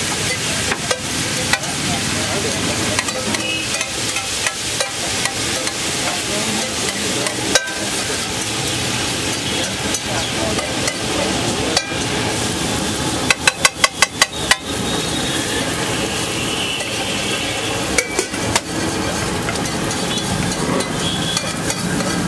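Egg gravy sizzling on a large flat griddle (tawa) while a metal spatula stirs and scrapes through it. Just past halfway the spatula clanks quickly against the griddle about seven times, and twice more a few seconds later.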